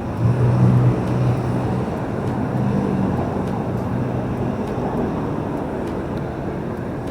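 Heavy road traffic passing close by, a steady noise of engines and tyres, with one vehicle's low engine hum strongest during the first couple of seconds.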